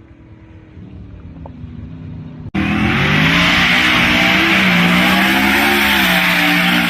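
Twin-turbo Ford Coyote 5.0 V8 in an F-150 running at low revs and slowly building. About two and a half seconds in it cuts suddenly to a loud run at high revs under hard throttle, held fairly steady, with a strong hiss over the engine note.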